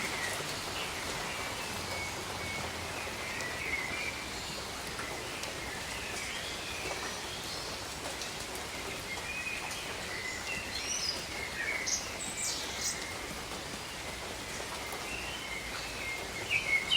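Steady rain falling over tropical forest, with birds calling over it in short chirps and whistles that come more often in the second half.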